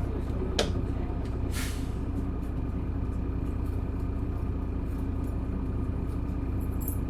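Isuzu Erga city bus's inline-six diesel engine running steadily, heard from inside the bus. There is a sharp click about half a second in and a short hiss of air from the bus's pneumatic brake system about a second later.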